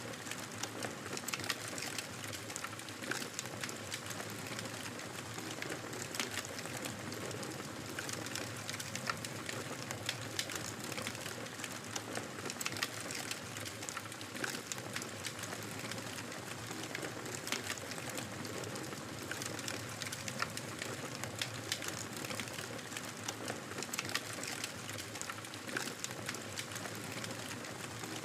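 Fireplace fire crackling steadily: a constant soft hiss of burning with frequent, irregular sharp pops and snaps.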